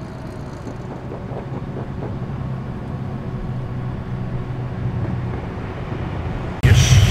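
Ford Falcon XD's engine running steadily at low revs as the car rolls out. Near the end a much louder engine rumble cuts in suddenly, its pitch wavering.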